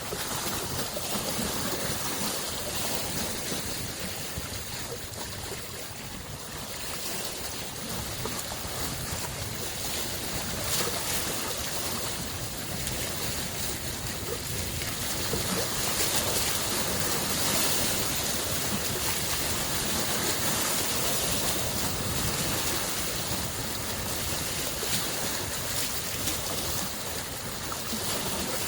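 Small lake waves lapping and washing on the shore, a continuous wash that swells and eases every few seconds, with some wind noise.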